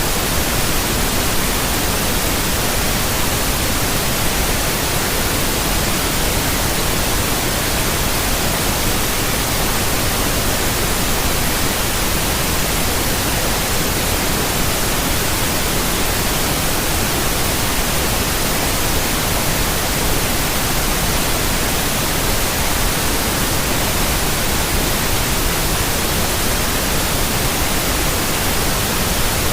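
Steady white noise: an even, unbroken hiss spread across the whole range of pitch, with no change in level.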